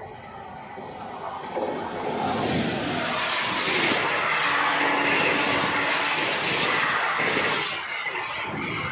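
Passenger express train hauled by a WAP-7 electric locomotive passing close by at speed: the rush of wheels on rails swells about a second and a half in and stays loud as the coaches roll past.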